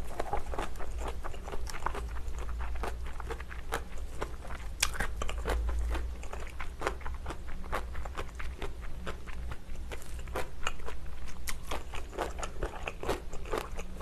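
Close-miked chewing of kimchi with rice: many quick, irregular crunches and bites, over a faint steady low hum.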